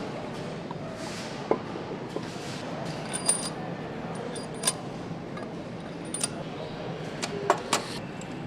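Steady background hum of a motorcycle factory floor, with about six sharp metallic clinks and clicks scattered through it.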